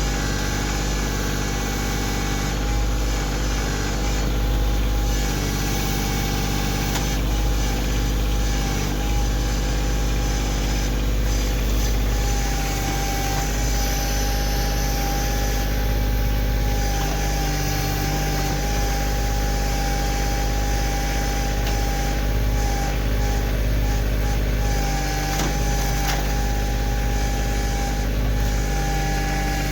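Kioti CK2610 compact tractor's three-cylinder diesel engine running steadily while working the backhoe, with a steady whine over the engine.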